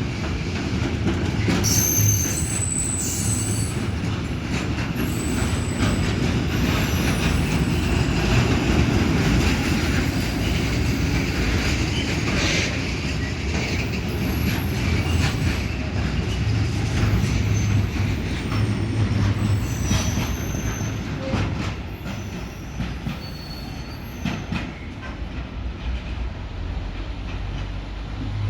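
Freight train rolling past: a steady rumble of wheels on rail, with short high-pitched wheel squeals and clicks over the rail joints. It eases off somewhat near the end.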